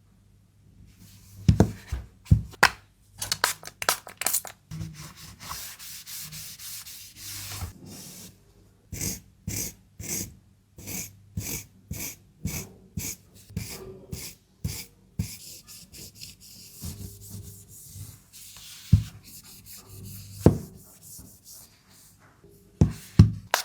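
Hands handling packaging materials while packing a phone: rubbing and rustling with many sharp taps and clicks, at about two a second through the middle stretch.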